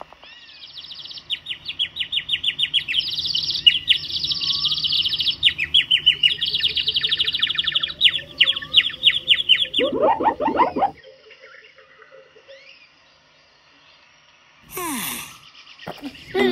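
Birds chirping and trilling rapidly, high-pitched, as a jungle sound effect. About ten seconds in comes a louder, lower call lasting about a second, and a short noisy burst with a falling tone follows about fifteen seconds in.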